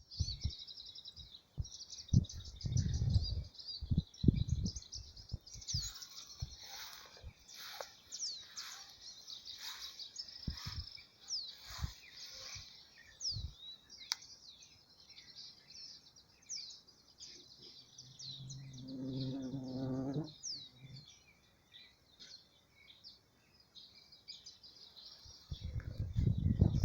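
Small birds chirping and twittering, with many quick falling whistles. Scattered low thumps run through the birdsong, a brief low drone comes about two-thirds of the way in, and a loud low rumble builds near the end.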